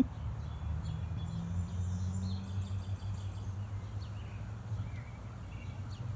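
Small birds chirping faintly and repeatedly over a steady low rumble.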